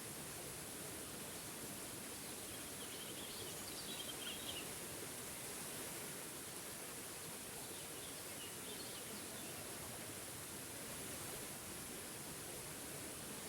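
Waterfall rushing with a steady, even sound, with faint bird chirps twice over it.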